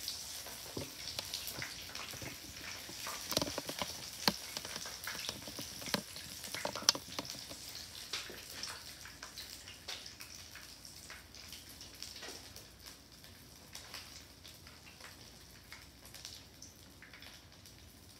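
Conch fritters shallow-frying in hot oil: a steady sizzle full of small spattering crackles, with a few sharper pops in the first half, getting gradually quieter toward the end.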